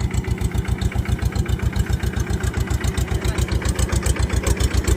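Farmtrac 30 HP tractor's diesel engine running steadily at a low, even speed, with a regular pulsing beat of about nine or ten a second.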